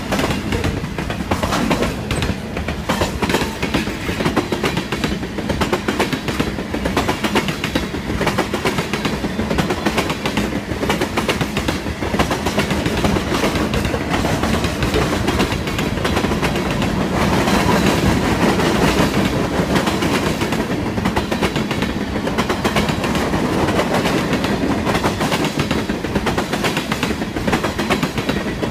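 Freight train cars (tank cars, autoracks and boxcars) rolling past: a steady rumble of steel wheels on rail with a rapid clickety-clack of wheels over the rail joints.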